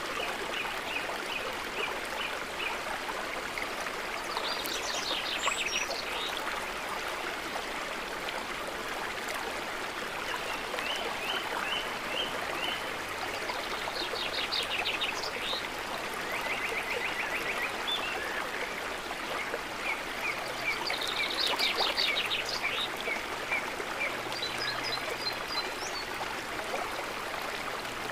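Gentle water trickling and lapping with a steady hiss. Over it, birds call every few seconds in short series of quick, high chirps and rapid trills.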